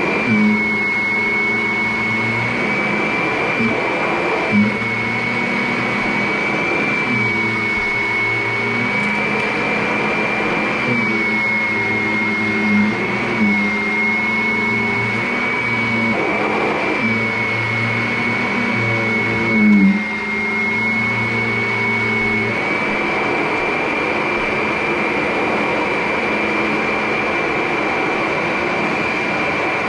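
Vacuum cleaner running with a steady high motor whine. A lower hum underneath comes and goes in stretches of a few seconds and drops out about three-quarters of the way through, with a few brief knocks along the way.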